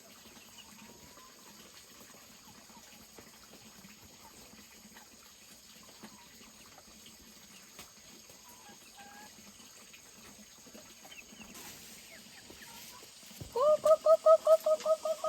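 Faint outdoor background, then near the end a loud bird call starts: rapid, evenly repeated notes at one steady pitch, about six a second.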